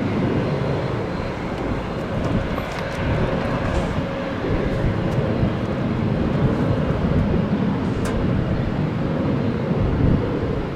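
Airplane engine noise, a steady deep rumble with a faint held tone in the first few seconds, swelling slightly later on.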